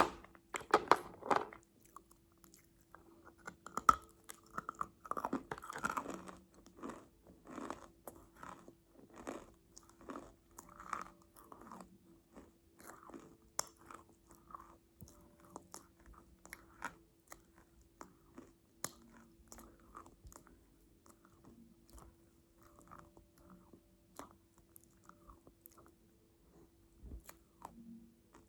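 Close-miked chewing of a crunchy 'butter grape': bites and crunches, dense in the first dozen seconds and thinning out later. A faint steady hum runs underneath.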